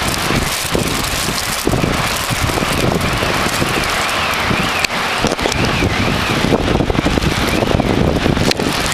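Heavy rain pouring steadily, with wind buffeting the microphone in uneven low gusts. Through the middle, a faint warbling tone rises and falls about twice a second.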